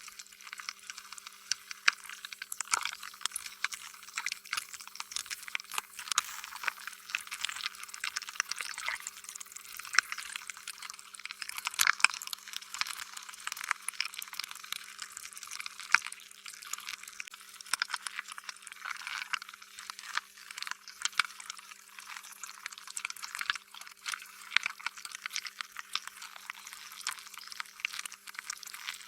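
Slime being squished and stretched: a continuous run of sticky, wet clicks and pops, with a faint steady hum beneath.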